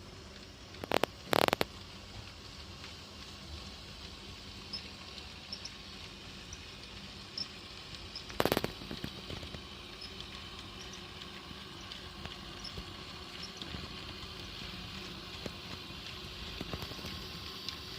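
HO-scale model Shay locomotive and freight cars running on model track: a steady faint rolling hiss with scattered light ticks, broken by sharp clicks twice about a second in and once more about halfway through.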